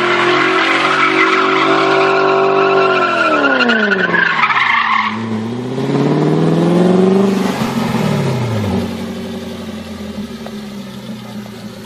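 Car engine held at high revs with tyres squealing, then dropping off about three seconds in. It revs up again briefly, falls back and runs on lower and quieter toward the end.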